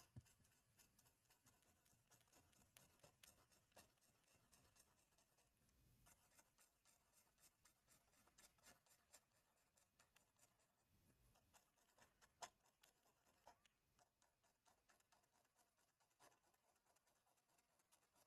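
Near silence with faint, scattered ticks and light scratches of drawing strokes, the clearest tick about twelve seconds in.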